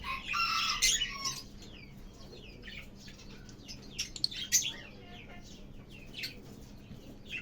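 Lovebirds chattering: a constant stream of short, high, falling chirps, with a louder, longer call near the start and a few sharper calls around four seconds in.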